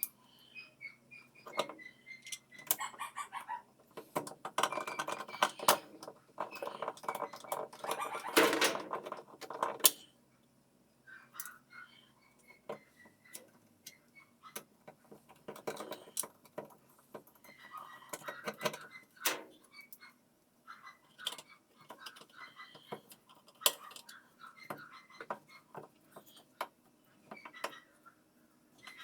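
Metal parts and hand tools clinking and knocking irregularly during washing-machine reassembly, busiest for the first few seconds and sparser afterwards.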